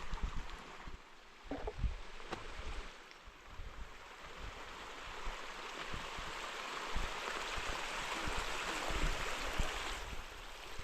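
Rushing water that grows louder over several seconds and stops abruptly near the end, over low thumps of wind on the microphone.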